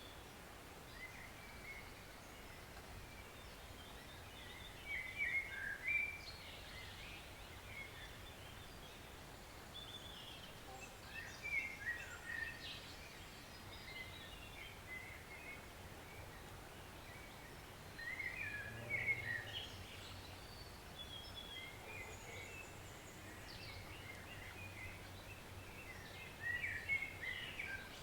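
Steady soft rush of a woodland stream, with songbirds breaking in with short bursts of chirping song four times.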